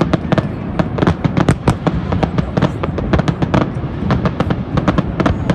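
Fireworks display: a dense, irregular barrage of bangs and crackles, several a second, over a steady low rumble of more distant bursts.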